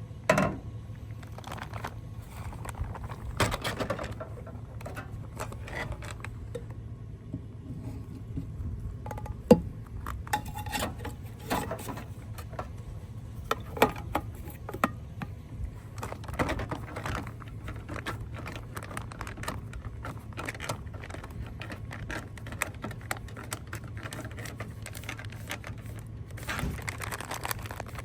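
Scattered clinks, knocks and rustles of camp cooking gear being handled over a steady low hum.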